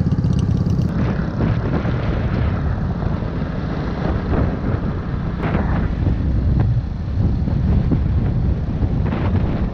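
A vehicle engine running steadily under loud wind buffeting on the microphone, as on the move.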